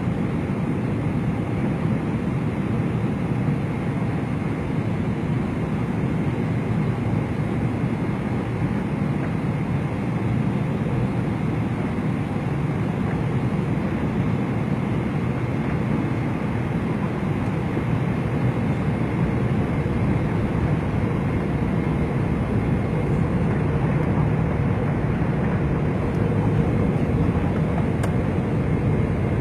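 Airliner cabin noise: a steady rush of engines and airflow, with a faint steady whine above it.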